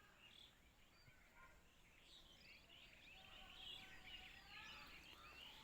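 A faint chorus of small birds chirping and calling over one another, many short overlapping calls, busiest a little past the middle.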